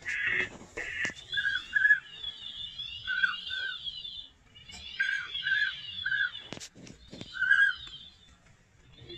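Birds calling: short whistled notes, mostly in pairs, recurring every second or so over a continuous high twittering chatter, with a couple of sharp clicks.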